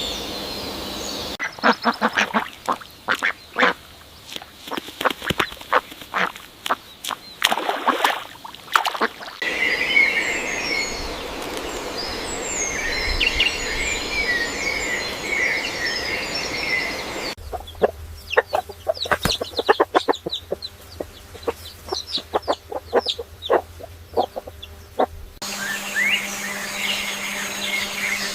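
Ducks quacking in quick runs, in two stretches of several seconds each. Small birds chirping and singing fill the passages between them.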